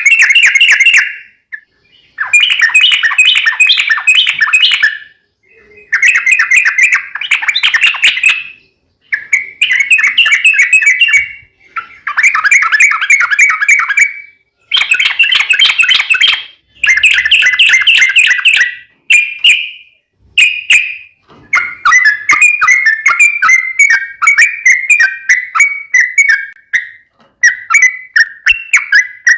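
Yellow-vented bulbul (trucuk) song: loud, bubbling phrases of fast trilled notes, each lasting one to three seconds with short pauses between, running into an almost unbroken chatter over the last few seconds. This is the long-trill (ropel panjang) lure song that keepers play to provoke their own birds to answer.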